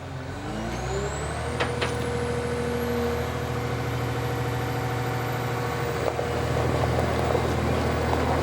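Forestry harvester's diesel engine revving up over about the first second, then running steadily at high revs, with a faint high whine slowly rising above it.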